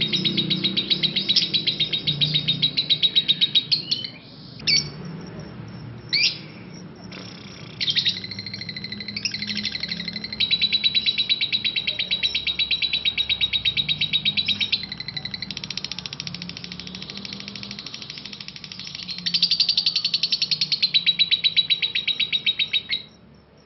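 Parblue lovebird singing its long 'ngekek': a rapid, unbroken rattle of high, sharp chirping notes in long runs. About four seconds in the run breaks off for a few seconds with only a couple of single sharp calls, then resumes and carries on until it cuts off near the end.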